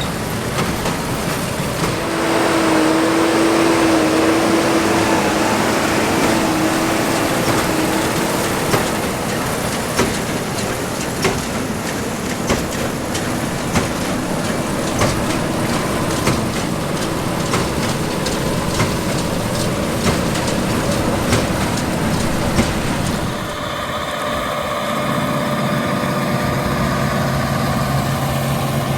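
John Deere S780 combine running in the field while harvesting barley with a stripper header. Its steady machine noise is broken through the middle by sharp clicks about once a second, and near the end it changes to a steadier, lower hum.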